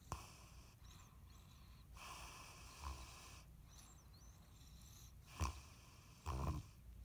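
English bulldog snoring with a toy in her mouth: irregular snoring breaths, with two sharper, louder snorts near the end.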